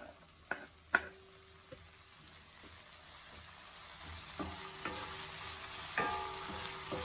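Chopped tomato, shallots and green chillies frying and sizzling in hot oil in a stainless steel kadai, stirred with a wooden spatula that knocks against the pan a few times. A couple of sharp knocks come in the first second, then the sizzle grows steadily louder.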